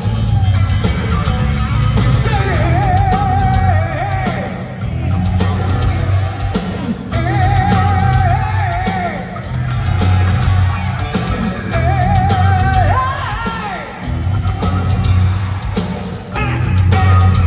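Hard rock band playing live: distorted electric guitar, bass and drums with singing, and a wavering high phrase that repeats every few seconds over a pulsing low end.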